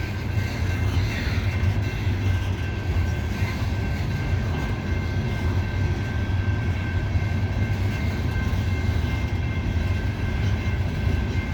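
Loaded coal hopper cars of a freight train rolling slowly past at a crawl: a steady low rumble of wheels on rail, with a faint steady high whine above it.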